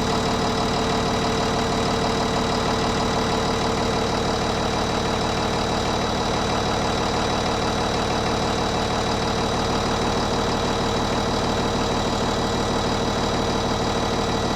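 Cummins 6.7-litre six-cylinder turbo diesel idling steadily after a cold start, holding an even rhythm while its compressor builds air pressure for the air brakes.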